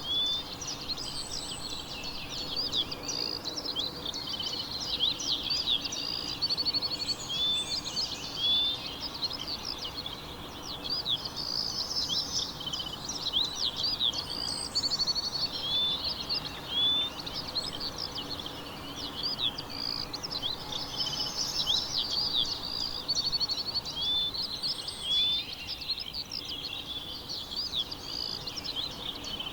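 A chorus of small songbirds chirping and trilling continuously, with a short rising whistled note that comes in pairs every several seconds.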